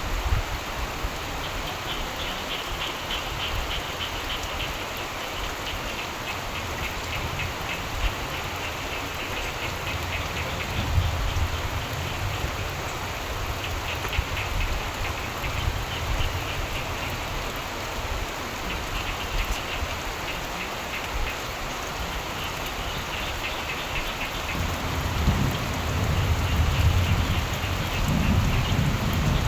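Steady rain falling, with frogs calling in bouts of rapid pulsed croaks every few seconds. A low rumble of thunder swells near the end.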